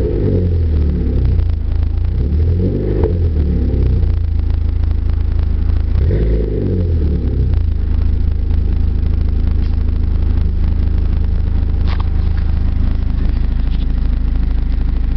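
Exhaust note of a 2005 Chevrolet Cavalier's Ecotec four-cylinder through 2.5-inch mandrel-bent piping, a Magnaflow cat and a Flowmaster Super 40 muffler. It is revved in short blips three times, then settles to a steady idle about halfway through.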